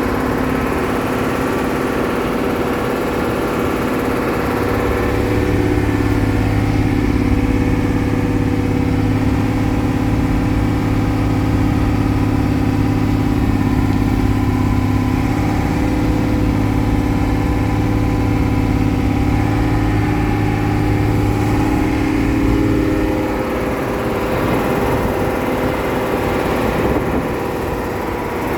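A vehicle engine running steadily at an even pitch. About 23 seconds in, its strongest low hum falls away and the sound changes.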